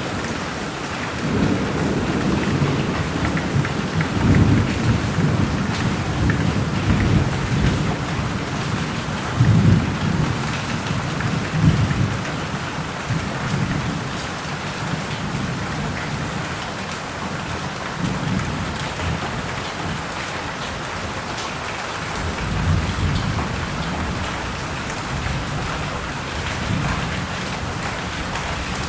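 Steady heavy rain with rolling thunder rumbling low, loudest in the first half and swelling again after about 22 seconds.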